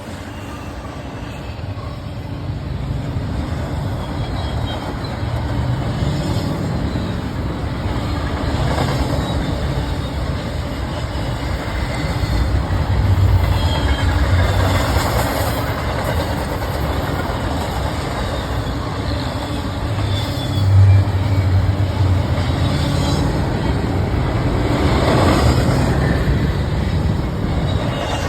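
A train passing close by: a steady rumble of wheels on the rails with low engine hum, building over the first few seconds and then holding loud, with repeated swells of clatter as cars go by.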